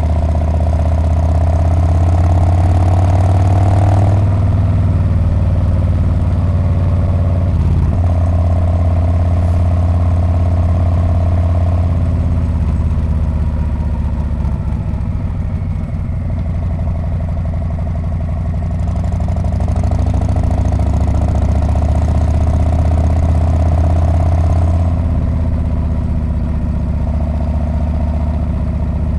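Harley-Davidson Street Bob's V-twin engine and exhaust heard from the saddle while riding. Its note rises over the first few seconds, drops back about four seconds in, runs quieter through the middle, then picks up again around twenty seconds in as the throttle opens.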